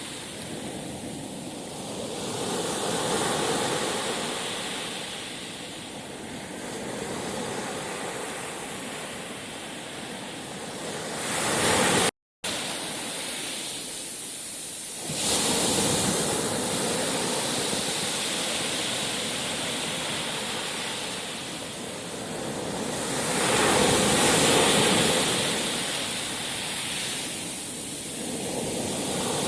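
Sea waves washing in and ebbing away in slow, repeated surges. The sound cuts out for a moment about twelve seconds in.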